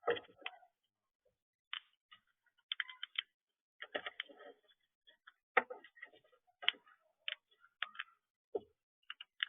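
Parrots making irregular short clicks and brief chattering sounds.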